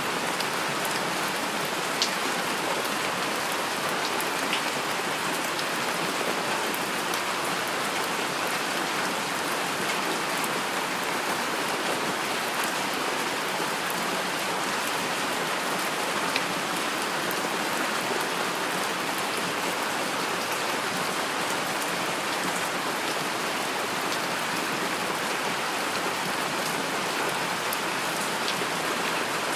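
Steady rain falling, an even hiss of many drops, with a couple of single sharp drop hits standing out, about two seconds in and again past the middle.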